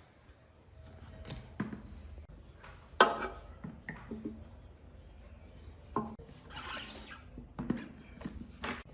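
Scattered knocks and clicks of hard objects being handled, irregular and a second or more apart, over a faint low hum, with a brief hiss a little before the end.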